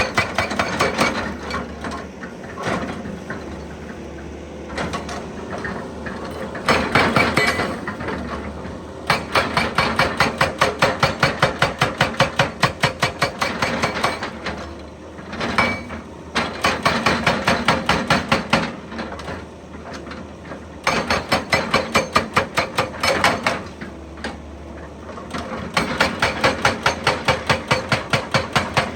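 Excavator-mounted hydraulic breaker hammering, in repeated bursts of rapid blows about six a second, each burst lasting a few seconds, with a steady hum in the pauses between them.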